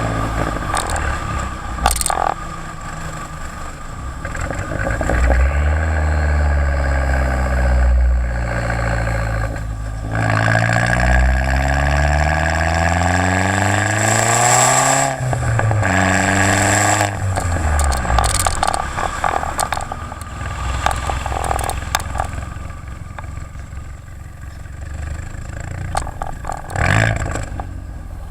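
Turbocharged 2011 Jetta GLI with a 3-inch downpipe and Magnaflow race muffler, its exhaust note climbing under acceleration. It rises twice in pitch, with a shift between the pulls. About midway a short hiss comes as the throttle is lifted, and the engine note falls away.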